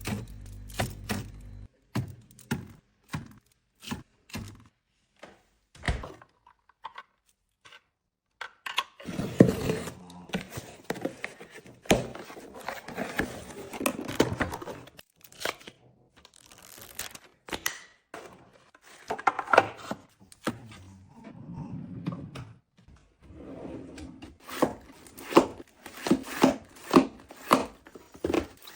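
Household items being handled: a string of sharp clicks and knocks, with longer stretches of packaging crinkling and tearing about a third of the way in and again near the end.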